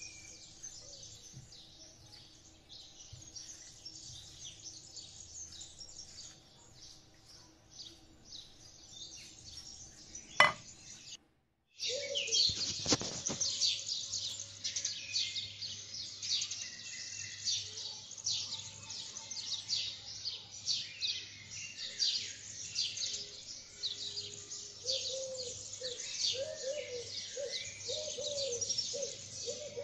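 Many small birds chirping and twittering, quick high calls following one another continuously. There is a sharp click and a brief drop-out about a third of the way in, after which the chirping is louder, and a lower repeated call joins near the end.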